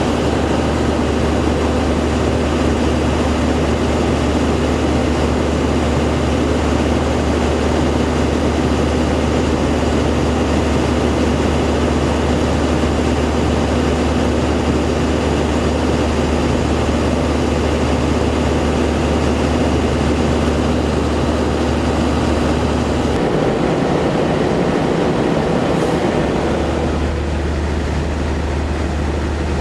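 Steady low drone of a large engine running. The deepest part of the hum drops out about two-thirds of the way through and returns a few seconds later.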